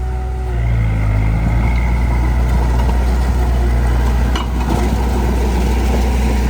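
Heavy diesel engine of earth-moving machinery running steadily, briefly rising in pitch about a second in, with a single sharp knock after about four seconds.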